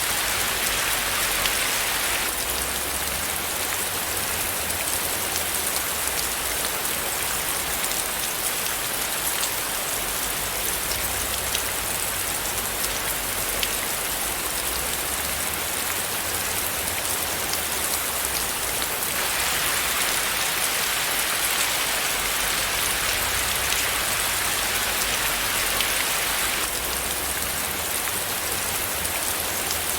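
Steady rainfall: a dense, even patter of raindrops hitting a surface, with a brighter stretch for several seconds past the middle.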